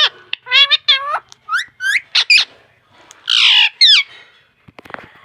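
Pet parrot calling: a run of short, high chirps and whistles that glide in pitch, with a harsher squawk about three seconds in.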